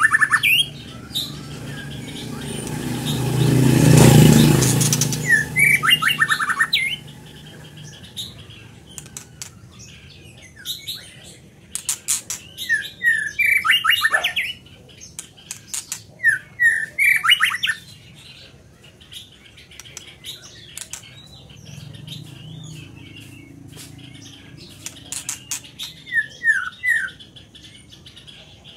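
White-rumped shama singing in repeated bursts of fast, clear, rich phrases with pauses between them. A broad rushing noise swells to a peak about four seconds in, and a low hum comes in briefly near the end.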